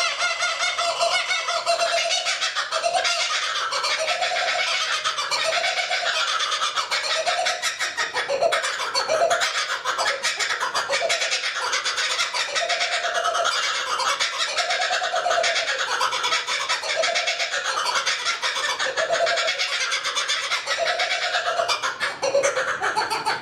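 Wild birds calling: a short, low note repeats about once a second over a dense, continuous chatter of higher calls.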